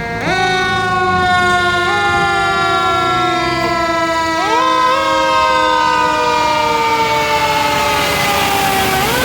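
Fire engine siren, loud and close, its pitch jumping up sharply and then slowly winding down, four times.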